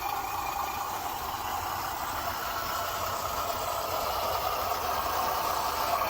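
Radio-controlled 6x6 scale truck driving, its motor and gears whining steadily with some rattle, the whine slowly rising in pitch as it speeds up.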